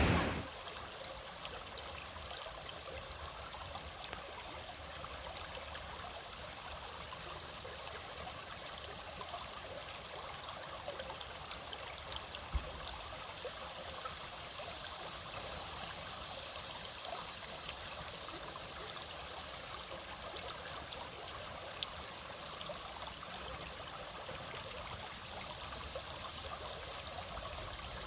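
Mountain stream running steadily over rocks, a continuous rushing and trickling of water, with a couple of faint knocks partway through.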